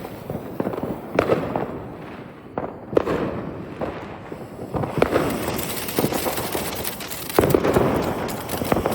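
Fireworks going off: a string of bangs every one to two seconds over a steady crackle and hiss.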